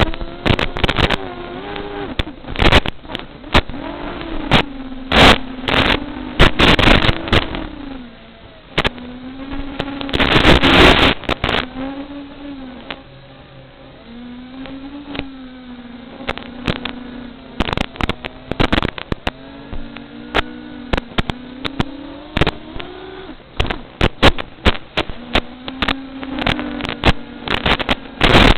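FPV quadcopter's motors buzzing, the pitch rising and falling again and again with throttle changes. Many sharp crackles break in, with a loud rush of noise about ten seconds in.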